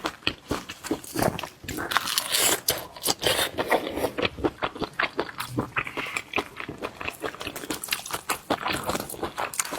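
Close-up eating sounds: a mouth chewing and biting seafood, with many quick, irregular wet clicks and crunches.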